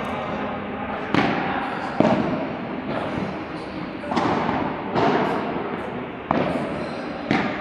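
Padel rally: the ball is hit back and forth with padel rackets and bounces on the court, about six sharp pops roughly a second apart.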